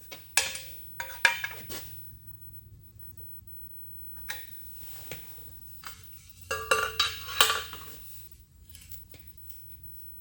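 Scattered metallic clinks and knocks of tools against the steel of a metal shaper, some ringing briefly, as a dial indicator is set up to check the play in the ram. They come in clusters near the start, around the middle and a few seconds before the end.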